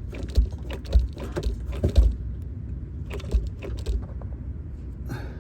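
Irregular low clunks and metallic rattles from a 2006 Dodge Charger's drive shaft as it is worked, the noise the owner traces to the drive shaft and feels as shaking in first gear.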